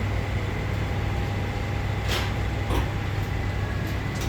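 Mitsubishi Electric elevator car in motion: a steady low hum with a faint whine, and two short clicks about two and three seconds in.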